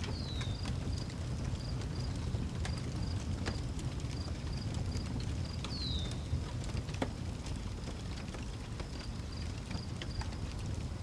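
Outdoor wood fire burning with a steady low rumble and occasional sharp crackles and pops, while crickets chirp in a steady high pulsing rhythm. A bird gives a short falling whistle right at the start and again about six seconds in.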